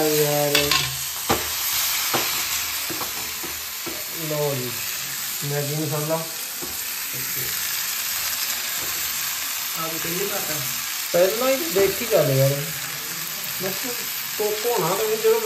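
Maggi noodles frying in oil in a small pan over a lit gas burner, a steady sizzle throughout, with a steel ladle stirring in the pan.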